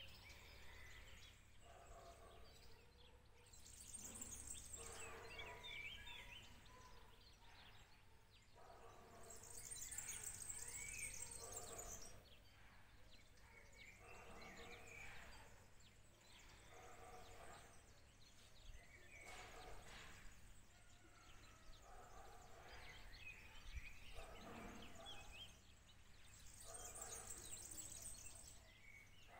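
Faint birdsong: scattered chirps and short calls, with a few spells of dense high-pitched twittering, over a low steady background hum.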